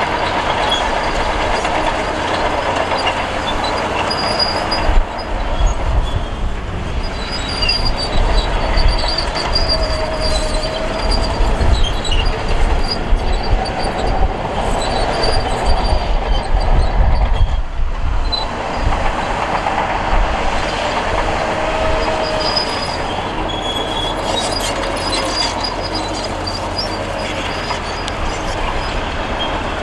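Crawler bulldozer working: the diesel engine runs under load while the steel tracks grind and clank. A wavering metallic squeal rises out of it twice, around a third of the way in and again about three-quarters in, and heavier rumbling surges in the first half.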